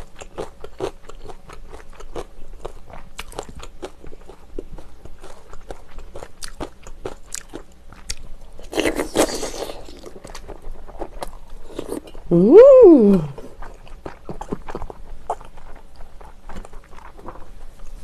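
Close-miked chewing with repeated crunches of cubed radish kimchi (kkakdugi). About nine seconds in there is a noisy slurp lasting about a second. About twelve seconds in comes a short vocal sound rising then falling in pitch, the loudest moment.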